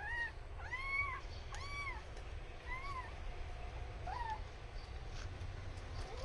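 Cat meowing about five times in short, arching calls, the last two fainter.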